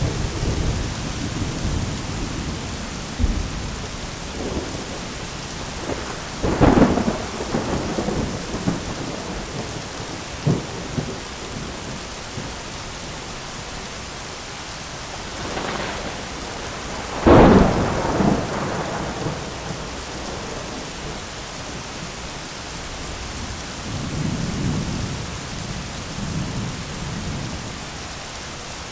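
Thunderstorm: steady rain with rolls of thunder. It rumbles at the start, gives a sharp clap about six seconds in and its loudest crack just past the middle, then a low rumble near the end.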